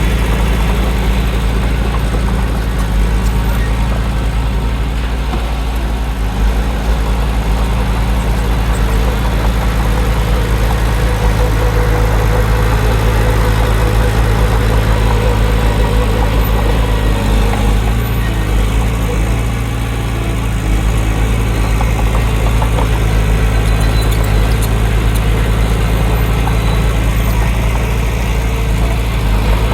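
Heavy diesel engine of earthmoving machinery running steadily with a deep, even hum, dipping slightly about two-thirds of the way through.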